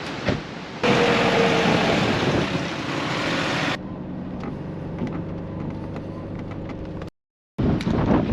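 A car driving, with engine hum and road noise, cut off by a brief moment of silence near the end.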